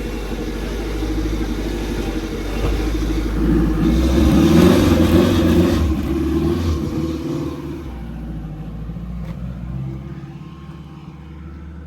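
Car engine running, building up in level to its loudest a few seconds in, then easing off and settling lower toward the end.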